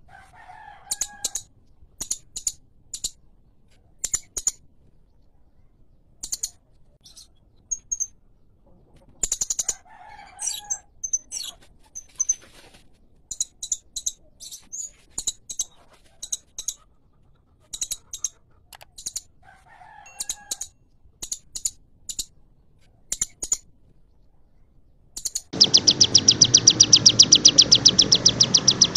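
Songbird calls: short, sharp, high chirps repeated in irregular runs, with a lower call about every ten seconds. A few seconds before the end a loud, continuous, very fast high trill starts abruptly.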